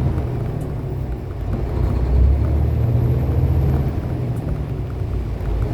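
Steady low drone of a semi-truck's diesel engine and road noise heard from inside the cab while driving at speed.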